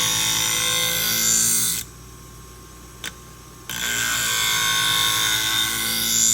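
A Fiskars sewing-scissor blade ground against a spinning 240-grit diamond wheel on a Wolff Twice As Sharp scissor sharpener, regrinding an edge damaged by a pull-through sharpener. It makes two grinding passes over the motor's steady hum: the first ends at about two seconds, and after a pause with a single click the second starts near the middle and runs about three seconds.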